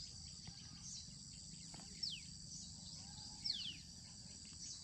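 Faint, steady high-pitched insect chorus, with several short downward-sliding bird whistles.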